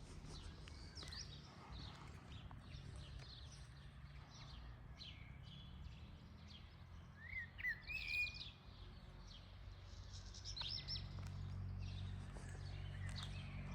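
Small birds chirping and singing, with a few louder calls about halfway through, over a low steady rumble that grows louder near the end.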